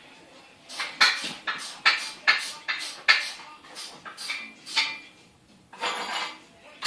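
Wrench and steel mounting hardware clinking in a run of sharp metallic strikes, about two a second, with a longer rattling scrape near the end, as the new bench vise's mounting bolts are tightened down.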